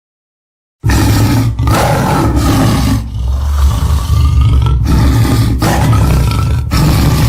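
Carcharodontosaurus roar sound effect, built from King Kong, gorilla and big-cat recordings. It starts after nearly a second of silence with a run of loud, deep roars and growls. Short breaks separate them.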